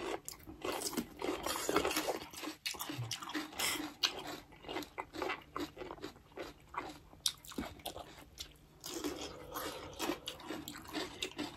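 Crunching and chewing from people biting into crisp yellow vegetable slices, a rapid run of short crackly bites.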